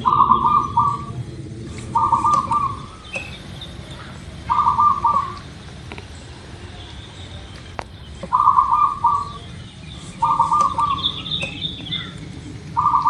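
Zebra dove cooing: six short phrases of quick staccato coos, each under a second long, repeated every two to four seconds. Faint chirps of other birds sound higher up between them.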